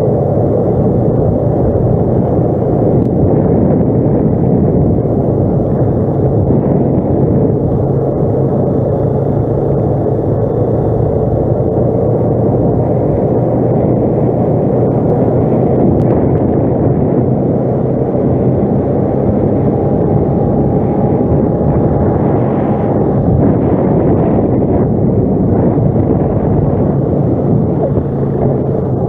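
ATV engine running steadily under way, its pitch shifting slightly with the throttle.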